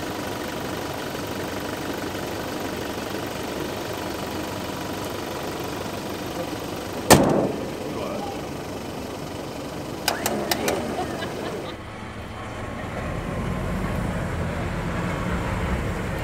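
Four-wheel-drive vehicle's engine running steadily, with one sharp knock about seven seconds in and a few quick clicks about ten seconds in. A deeper engine rumble builds up near the end.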